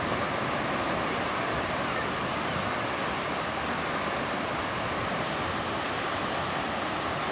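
Steady rush of sea surf and wind, with no distinct events.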